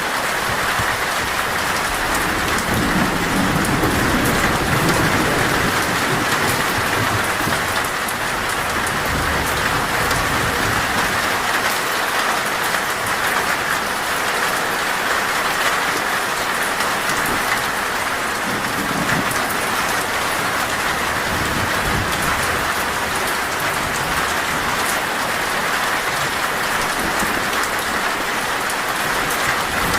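Heavy rain falling steadily on a metal roof. Low rolls of thunder rumble under it from about two seconds in to about ten seconds, and again briefly around twenty seconds.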